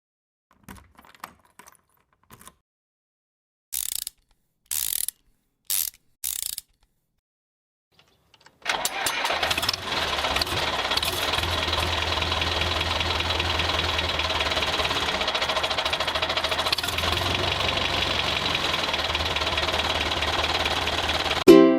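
A DIY mini tractor's small electric motor, switched on in four short bursts, then running steadily with a constant whine after a pause. Music starts just before the end.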